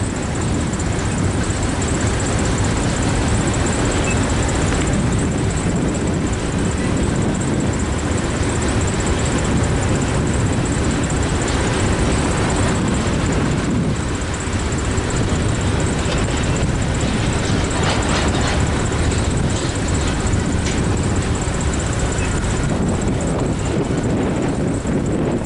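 Freight train rolling past close by: a steady, loud rumble and roar of cars on the rails, with faint clicking near the end.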